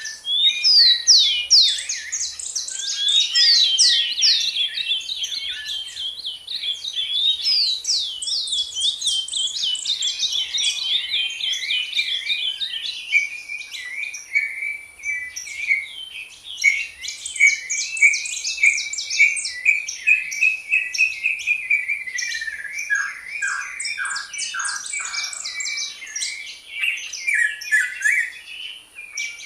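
Songbirds singing continuously in rapid, varied chirps and trills. Near the end comes a short run of falling notes.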